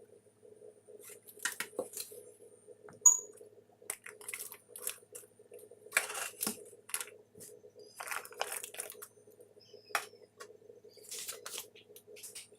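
Kitchen food-preparation handling sounds: scattered rustles, taps and clicks, with one sharp clink about three seconds in, over a faint steady hum.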